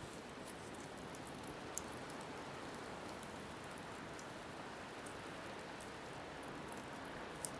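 Wood fire crackling with scattered small pops over a steady wash of waves and wind, with one sharper pop about two seconds in and another near the end.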